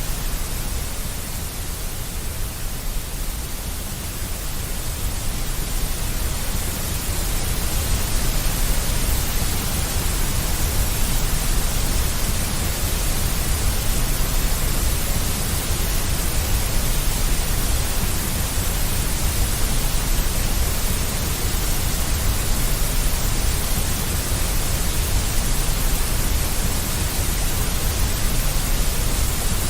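Deep white noise: a continuous, even hiss with a heavy low rumble under it, no tones or rhythm. It swells slightly in level over the first several seconds, then holds steady.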